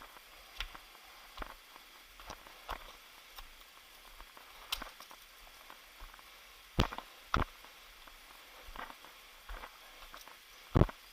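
Footsteps on a forest trail: irregular short crunches and knocks, about one or two a second, with a few louder thuds partway through and near the end.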